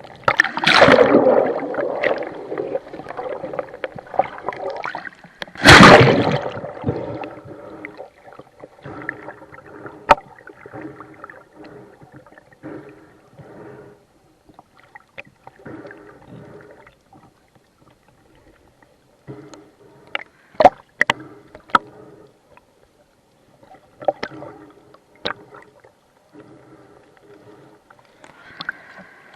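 Seawater sloshing and gurgling in choppy, whitecapped sea, with two loud splashing surges in the first seven seconds, then quieter water movement broken by a few sharp clicks.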